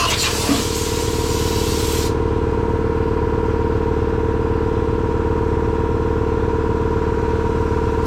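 Pressure washer running steadily, spraying with a loud hiss that cuts off suddenly about two seconds in while the machine keeps humming.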